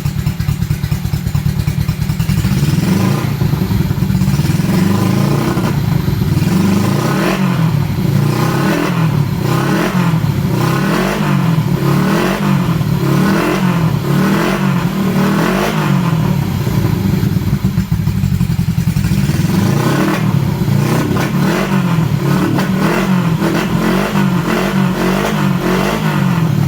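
Honda CB72's air-cooled parallel-twin engine running through megaphone mufflers. It runs steadily at first, then is revved in quick blips about once a second, pauses at a steadier note for a couple of seconds, and is blipped again.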